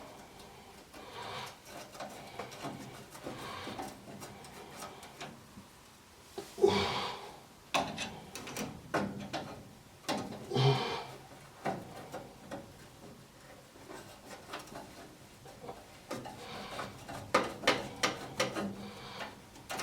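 Scattered clicks, scrapes and rubbing of a screwdriver and metal gas-furnace parts being handled as a screw is driven back in to refit the cleaned flame sensor, with a few louder clattering bursts.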